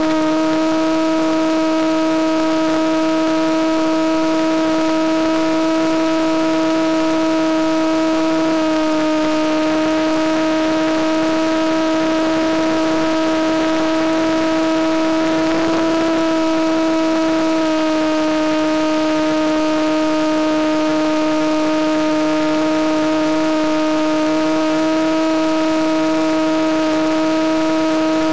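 Electric motor and propeller of a Penguin FPV model airplane running steadily in flight, a loud even drone over a steady hiss. The pitch dips slightly about a third of the way in, rises a little just past the middle, then settles lower again.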